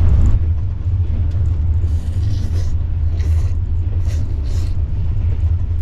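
Passenger train running, heard inside the carriage as a steady low rumble, with a few short hissing sounds through the middle.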